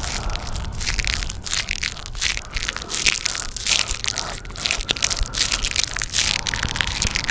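Dense, irregular crunching and crackling, mostly high-pitched, with no steady rhythm.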